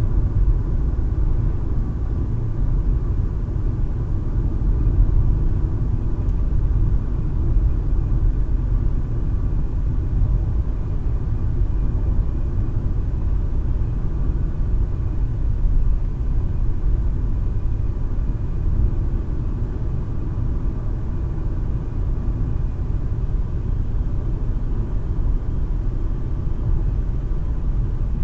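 Steady road and engine noise of a car driving at speed, heard from inside the cabin: a low, even rumble.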